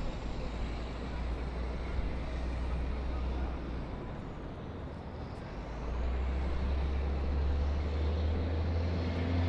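City traffic noise: a steady low rumble of trucks, buses and cars, swelling louder about six seconds in, with a faint high whine that dips and rises again in pitch.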